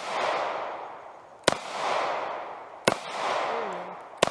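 Taurus G2C 9mm pistol fired three times, one shot about every second and a half, each shot followed by a fading echo.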